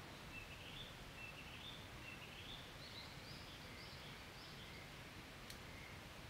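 Faint steady background hiss with a distant bird calling: a run of short high chirps that climb step by step in pitch over about four seconds. There is a single sharp click near the end.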